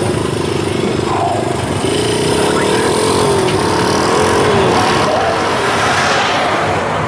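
A drag car's engine running as the car rolls slowly past, its pitch wavering, followed by the small engines of an ATV and a minibike riding by.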